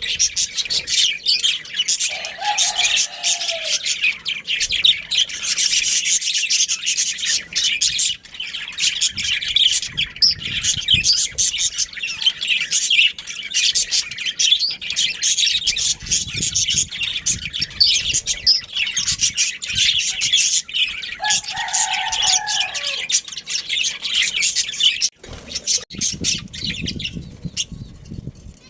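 A flock of budgerigars chirping and chattering non-stop in quick, high twitters. A brief lower call breaks through twice.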